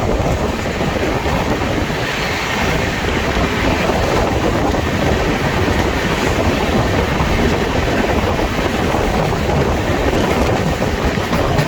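Express passenger train passing through a station without stopping at about 130 km/h, its wheels running on the rails in a steady, loud rush of noise.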